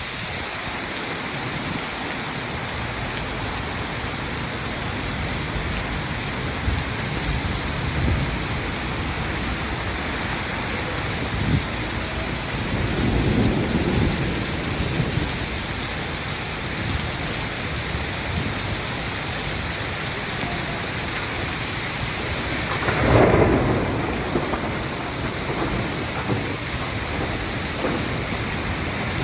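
Heavy rain pouring steadily, with low rolls of thunder rising and fading a few times; the loudest roll comes about two-thirds of the way through.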